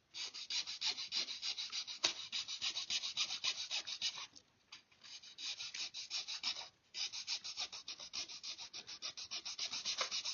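A small fine hand file rasping in quick short strokes, with two brief breaks about halfway through.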